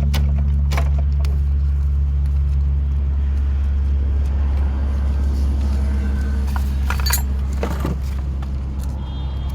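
A motor running steadily with a constant low drone, with a few sharp metallic clinks like tools being handled, a small cluster of them about seven seconds in.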